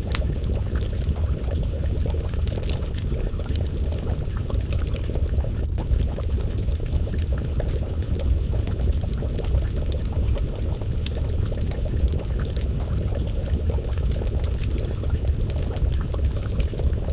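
Crackling wood fire: frequent small sharp pops and snaps over a steady low rumble, mixed with the bubbling of a stew pot simmering over the flames.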